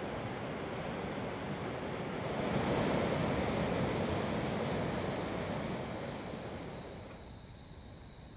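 River rapids: water rushing steadily over a rock ledge, swelling a couple of seconds in and fading away near the end.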